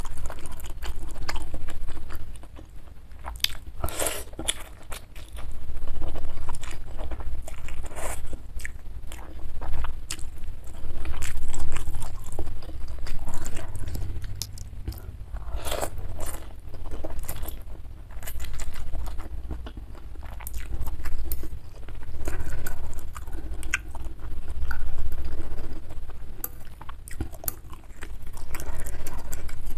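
Close-miked eating of spicy bakso meatball soup with glass noodles and eggs: wet chewing and biting that come in repeated swells every couple of seconds, with scattered sharp clicks.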